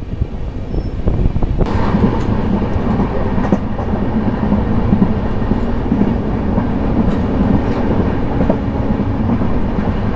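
Indian Railways passenger coach running on the track, heard from its open doorway: a steady rumble of wheels on rail with scattered clicks from the rail joints. It grows louder about two seconds in.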